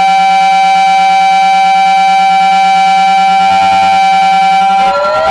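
Many megaphones blaring together at full volume, a loud, shrill, steady chord of held tones. Near the end the pitches start sliding up and down in sweeps that cross each other.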